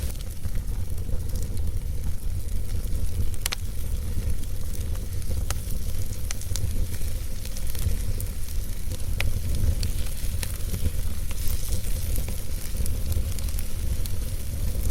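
Wood fire burning in a fireplace: a steady low rumble of flame with scattered sharp crackles and pops from the logs, the clearest about three and a half and nine seconds in.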